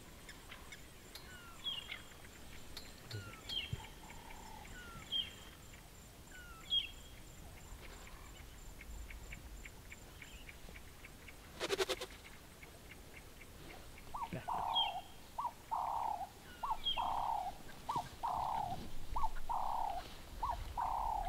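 Birds calling in the bush at dawn: a short, high chirp repeats every second or so. About halfway there is a single sharp knock. From about two thirds of the way in comes a faster run of lower calls, more than one a second.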